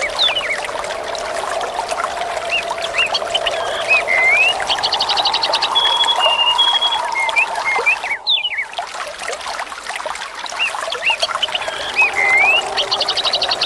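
Water trickling and pouring under birdsong: short chirps, whistled notes and a quick trill over a steady watery hiss. The same bird phrases come back about every eight seconds, as in a looped ambience track, and the sound briefly dips out about eight seconds in.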